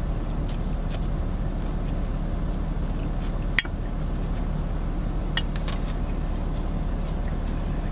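Cutlery and dishes clinking during a meal: one sharp click about three and a half seconds in and a few lighter clinks a couple of seconds later, over a steady low hum.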